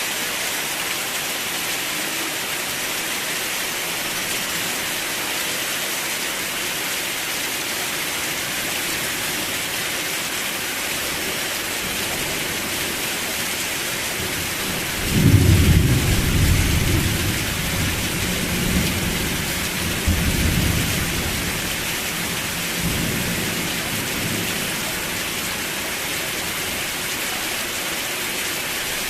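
Steady rain. About halfway through, a roll of thunder breaks in suddenly and rumbles for several seconds in waves before fading back under the rain.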